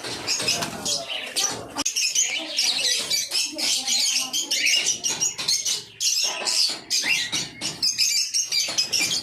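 A flock of small pet birds chirping and chattering continuously: a dense run of short, high calls overlapping one another.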